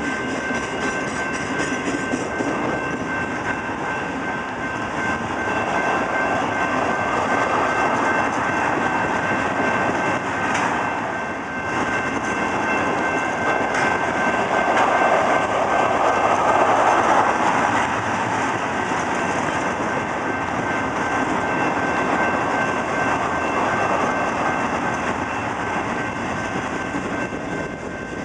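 Slow Canadian National freight train of boxcars, tank cars and covered hoppers rolling past: a continuous rumble and clatter of steel wheels on the rails, swelling louder three times as cars go by. A thin, steady high ring runs above it.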